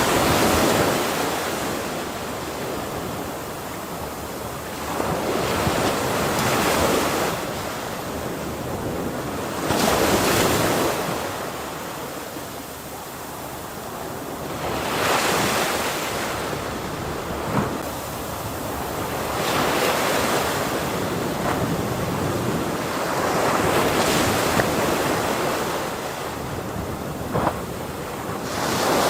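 Ocean waves breaking, the surf swelling and ebbing in a slow rhythm of about one wave every five seconds, with a couple of brief sharp clicks.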